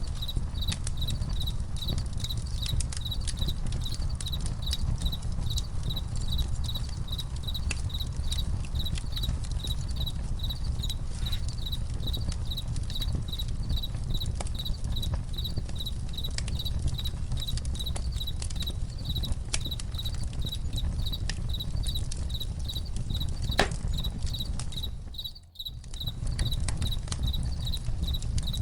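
Crickets chirping in a steady pulsing rhythm over a crackling campfire: a low constant rumble with scattered sharp pops. The whole sound dips out briefly near the end and comes back.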